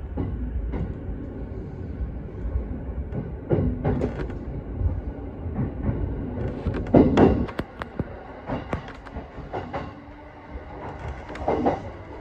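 JR East E233 series electric train running over the tracks, heard from the front cab: a steady low rumble with irregular clacks and clunks from the wheels crossing rail joints and points, loudest about seven seconds in.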